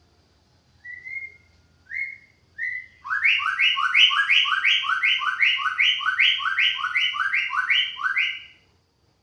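White-rumped shama singing: three short rising whistles, then a fast run of repeated two-note phrases, each note sliding down, for about five seconds.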